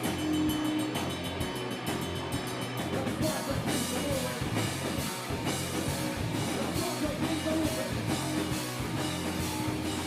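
Live rock band playing, with drum kit and guitar in a loud, dense mix.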